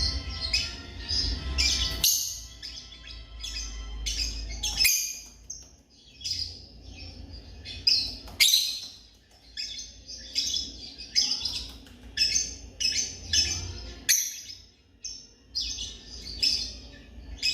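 African lovebirds chirping: a steady stream of rapid, repeated high chirps and squeaks, with a low rumble underneath for the first five seconds or so.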